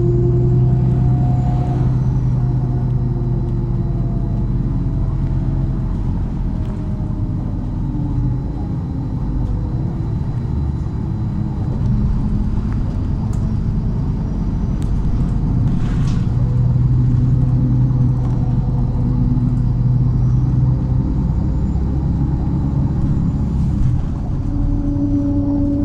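MAZ-103 city bus driving along, heard on board: a steady engine and drivetrain drone whose pitch rises and falls as the bus speeds up and slows, with a faint high whine gliding along with it. One sharp knock comes about two-thirds of the way through.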